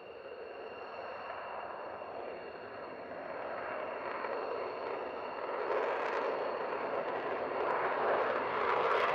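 Jet aircraft engine noise growing steadily louder, as of a fighter jet approaching.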